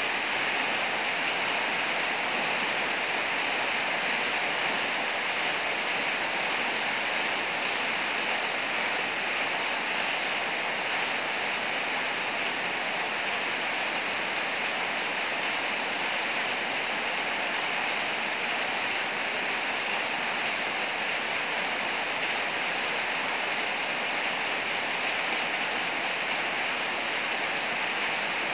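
Heavy rain falling in a steady downpour, an even hiss that does not change.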